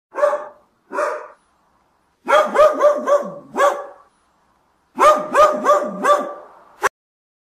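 Jack Russell terrier barking: two single barks, then two quick runs of five or six barks each.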